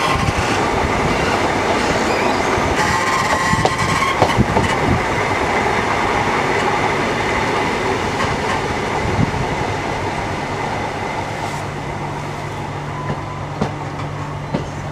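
Diesel multiple unit running into a station, heard from an open door window: wheel-on-rail noise with clicks over pointwork and faint squeals. The noise fades as the train slows, and a steady low engine hum takes over near the end as it comes to a stand.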